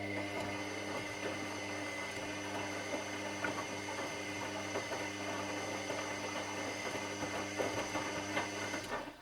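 Washing machine in its wash cycle: the motor hums steadily as it turns the drum, with the load churning inside, then stops about nine seconds in as the drum pauses between turns.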